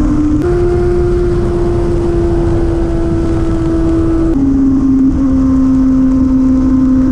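Motorcycle engine running steadily at speed under heavy wind rush. Its note steps up slightly under a second in and drops sharply about four seconds in.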